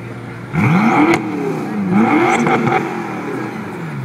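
BMW F10 M5's twin-turbo V8 through an Akrapovic exhaust, revved up twice, the pitch rising and falling each time, with a sharp crack at the top of the first rev, then settling back toward idle.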